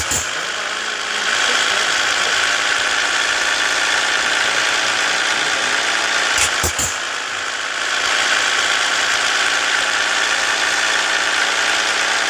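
Scania S 450 truck's six-cylinder diesel engine running steadily, with a brief sharp click about six and a half seconds in.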